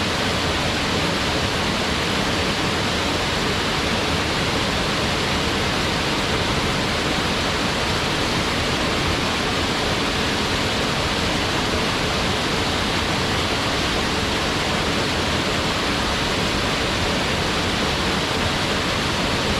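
Waterfall: a steady, dense rush of falling water plunging into a pool, an even full-range noise with no changes.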